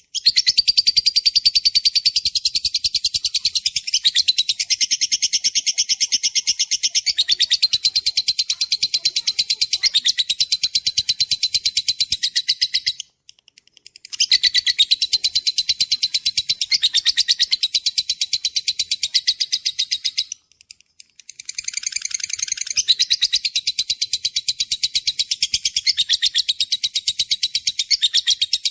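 Songbird singing a fast, continuous high-pitched trill of rapidly repeated notes, breaking off briefly twice.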